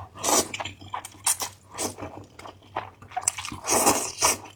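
Close-miked eating sounds: spicy noodles slurped and chewed in a run of short, wet, irregular bursts.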